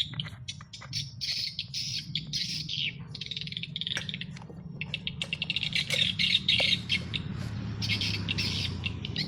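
Birds chirping and squawking in repeated short, rapid chattering bursts, over a steady low hum.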